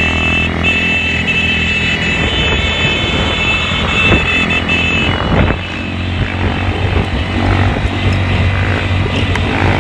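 Motorcycle engines running, with a brief rev about five seconds in.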